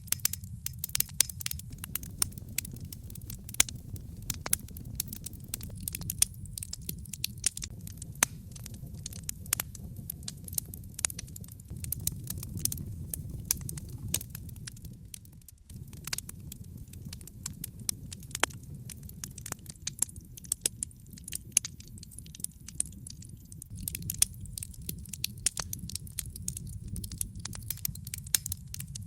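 Wood logs burning in a fireplace, crackling with frequent irregular sharp pops and snaps over a steady low rumble of the flames. The low rumble dips for a moment about halfway through.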